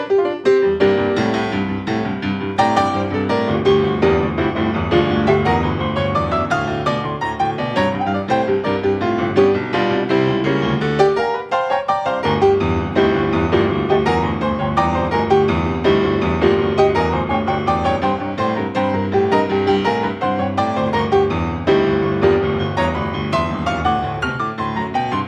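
Background piano music, a steady stream of quick notes with a brief break about eleven seconds in.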